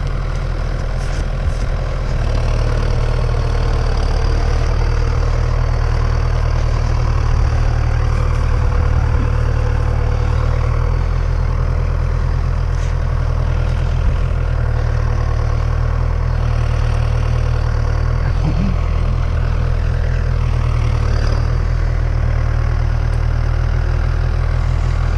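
Tractor engine running steadily: a loud, even, low rumble.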